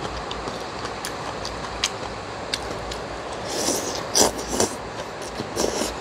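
Heavy rain falling steadily, with loud slurping of rice noodles from a spoon about three and a half seconds in and again near the end.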